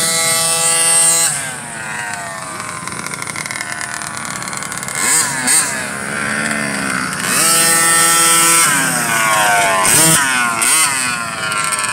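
Small youth motocross bikes revving hard, their engine pitch climbing, holding high and dropping several times as they accelerate and shut off around the track.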